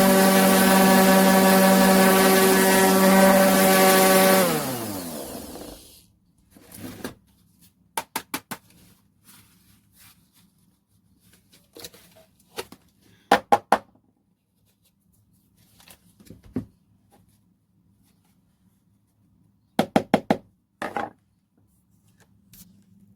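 Vistreck 150 mm 450 W corded random orbital sander running at a steady speed, then switched off and spinning down, its pitch falling over about a second and a half. Afterwards come several short groups of sharp clicks and knocks.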